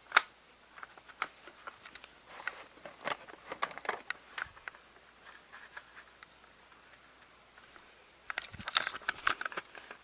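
Irregular clicks and light taps of hands handling a VHS cassette and its tape: one sharp click at the start, scattered ticks, and a quick run of clicks near the end.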